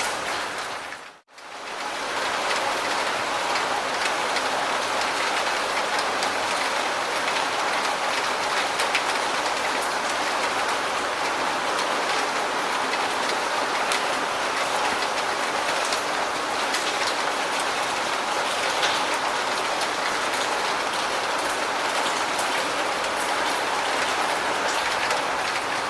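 Steady rain falling on surfaces, an even hiss with many small drop ticks. About a second in, the sound briefly drops almost to silence before the rain comes back.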